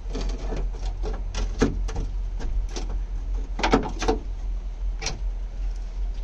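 Scattered metal knocks and clicks at uneven intervals from hands and tools working on a junked car, over a steady low rumble of wind on the microphone.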